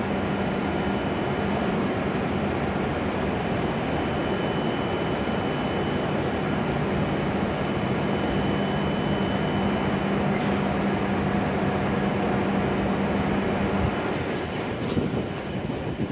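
E7 series Shinkansen standing at the platform, its onboard equipment giving a steady hum with a low tone that stops about two seconds before the end. A few faint clicks come through.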